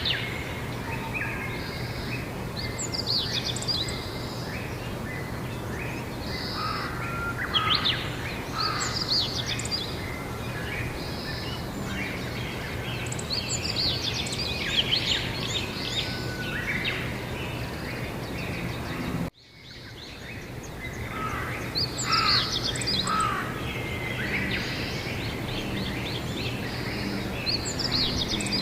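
Songbirds singing outdoors in spring, short warbling phrases every few seconds, over a steady low hum. About two-thirds of the way through, the sound cuts out abruptly for a moment and then fades back in, as at an edit.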